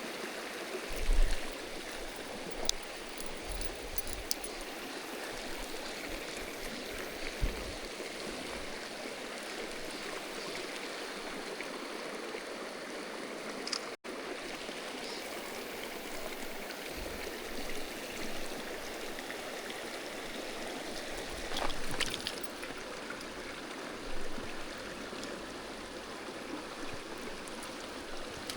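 Mountain stream water running over rocks: a steady rushing hiss. A few short low thumps break through it.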